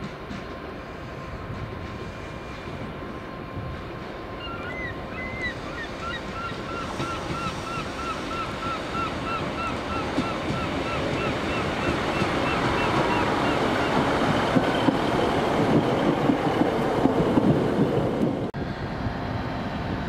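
A train approaching along the line, its running noise growing steadily louder. For several seconds in the middle a high squeaking chirp repeats evenly, about two or three times a second.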